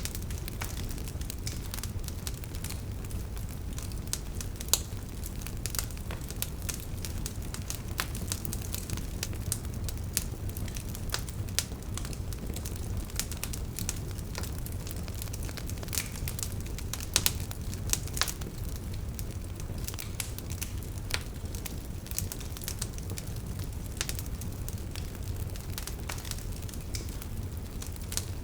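Wood fire burning: a steady low rumble of flames with frequent irregular crackles and sharp pops of burning logs.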